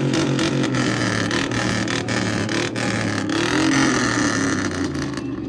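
A vehicle engine running loudly, with many sharp crackles over it; it dies away near the end.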